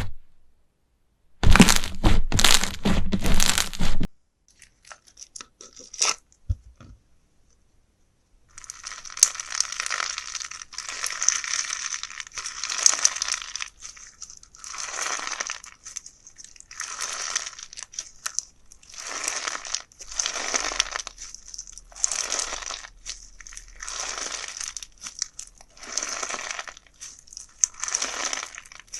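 Slime being handled close to the microphone: a burst of loud crunchy crackling lasting a couple of seconds, a few scattered clicks, then a crinkling, crackling squish that swells and fades about every two seconds.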